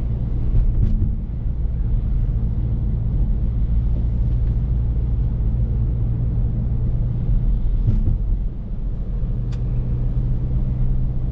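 BMW F30 335i's N55 turbocharged straight-six running at steady revs under way, heard from inside the cabin as a low, even drone mixed with tyre and road noise from the snowy, slushy road.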